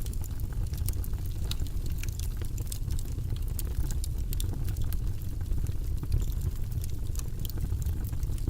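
Logs burning in a fireplace, crackling with many small, irregular pops and snaps over a steady low rumble of the fire.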